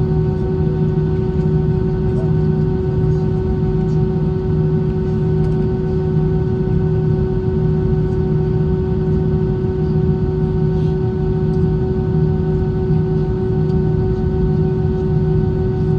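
Airbus A320 cabin noise in flight: a steady rush of air with a constant engine drone and several fixed humming tones, unchanging throughout.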